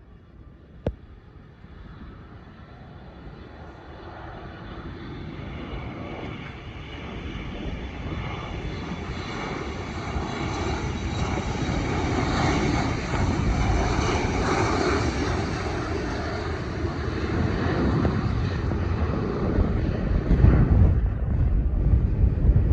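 Airplane engines with a steady high whine, growing louder over about twenty seconds as an aircraft approaches. There is a sharp click about a second in.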